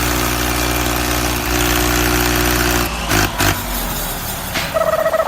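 Truck engine idling steadily. It cuts off about three seconds in with a few knocks, and a steady high-pitched tone sounds near the end.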